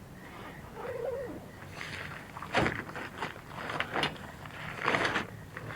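Nylon tent bag being unzipped and handled: several rasping zipper pulls and fabric rustles. A short wavering tone sounds about a second in.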